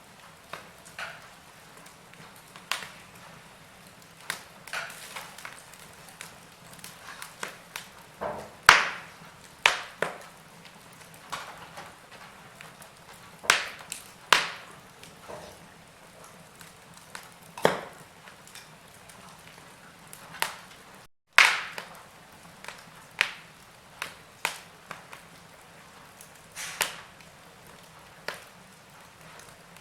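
Wood fire in a fireplace crackling: irregular sharp pops and snaps over a faint steady hiss, with a split-second gap about two-thirds of the way through.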